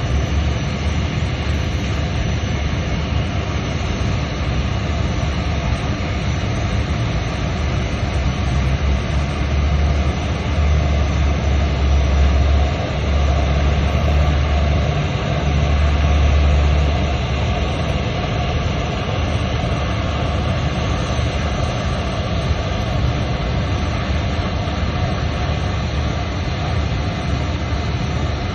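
Steady machine drone with a hiss, swelling in the low end for several seconds around the middle.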